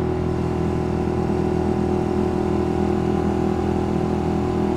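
Suzuki GSX-R150's single-cylinder engine running steadily at a light cruise around 40 km/h, its pitch holding level without revving up or down.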